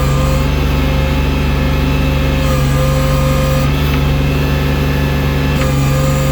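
Engine of a snow-clearing loader machine running steadily, with a thin whine that fades in and out.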